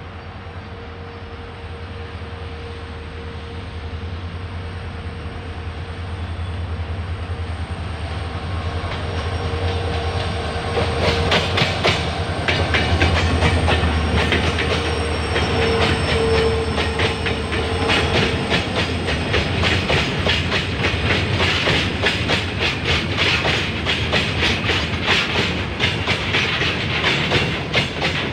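A pair of Indian Railways WDG4D and WDG4 diesel freight locomotives approaching and passing, their EMD two-stroke engines giving a low rumble with a steady whine that grows louder and peaks about halfway through. Then the freight wagons' wheels clatter rhythmically over the rail joints as the train rolls by.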